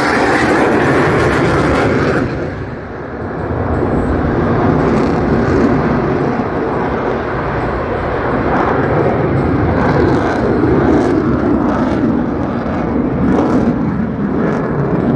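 F-22 Raptor's twin F119 afterburning turbofan engines making a loud, steady jet rumble during a flying display. The high hiss drops away about two seconds in, with a brief dip before the rumble carries on.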